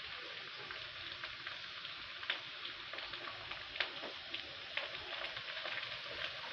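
Oil sizzling steadily in a kadhai as sliced onions, garlic, ginger and green chillies fry, with scattered crackling pops. A wooden spatula stirs the pan near the end.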